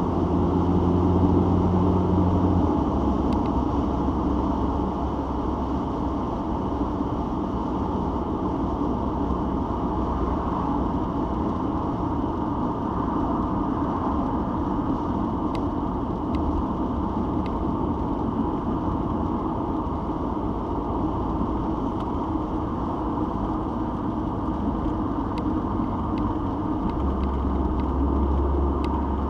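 Citroen XM being driven, with steady road and tyre noise under a low engine hum. The engine note shifts down about three seconds in and grows stronger again near the end.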